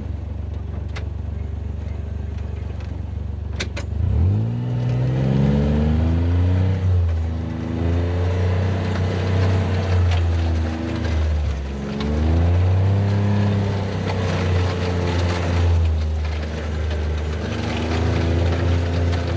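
A utility vehicle's engine idles low, then speeds up about four seconds in. Its pitch rises and falls about four times as it drives on and eases off.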